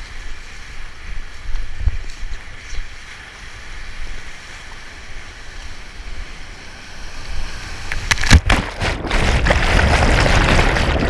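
Rushing Nile whitewater, with wind buffeting the microphone and low rumbles. About eight seconds in, the water gets much louder and there are a couple of sharp knocks.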